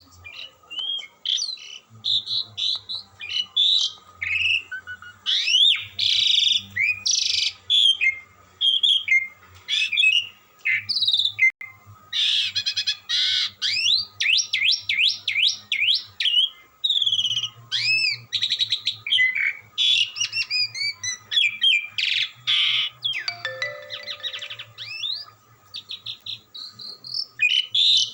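Pied starling (jalak suren) singing a long, varied song of clear whistles, rising sweeps and harsh buzzy notes, running on with only short gaps.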